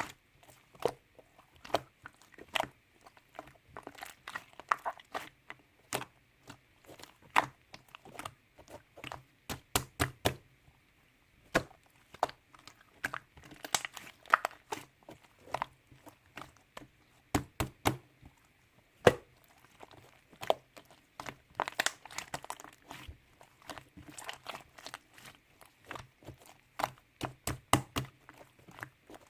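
A close-up run of irregular sharp crunches, clicks and crinkles, dozens of them, some in quick clusters, over a faint steady hiss.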